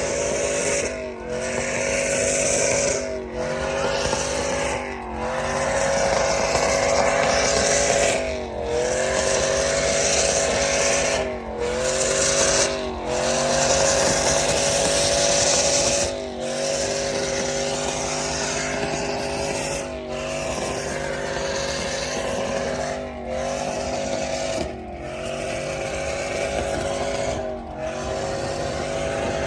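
A truck engine running steadily, its pitch dipping briefly and recovering every second or two.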